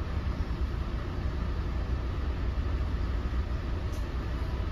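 Interior ride noise of an NJ Transit MultiLevel bilevel coach under way: a steady low rumble with a hiss above it from the running train.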